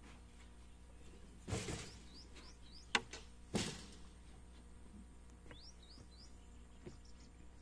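Small birds chirping repeatedly in short, quick chirps. Two brief noisy sounds and a sharp click come in the first half.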